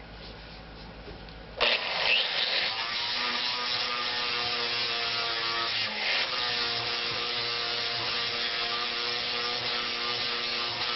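A small handheld rotary buffer with sandpaper starts about a second and a half in and runs steadily, taking a thin layer of metal off the end of a crankshaft pulley. Its pitch dips briefly near the middle.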